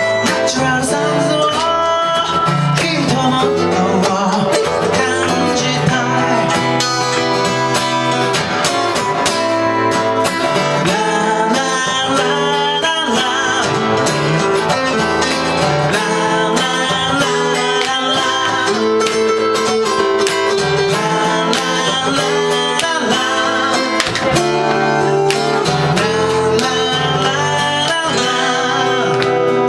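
Acoustic guitar strummed, with a singer's voice over it: a song performed live.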